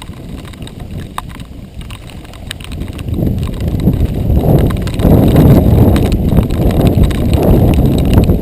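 Giant XTC 3 mountain bike rolling over a rough dirt trail: a rough rumble of tyres and rattling bike with scattered clicks, growing much louder about three seconds in as the ride speeds up or the ground gets rougher.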